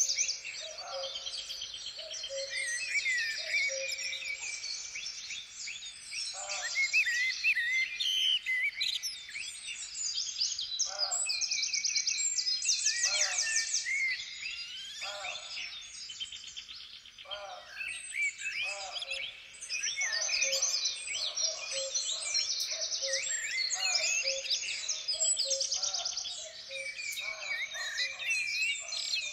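Several songbirds singing and calling at once, a dense, continuous chorus of high chirps, trills and quick rising and falling notes.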